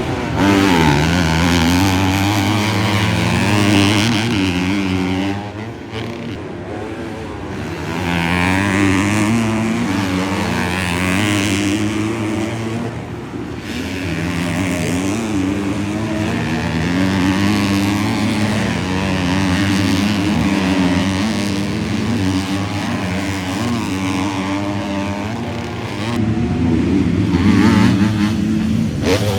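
Several 250-class motocross bikes racing on the track, their engines revving up and down over and over with the pitch rising and dropping as they accelerate and back off, overlapping one another.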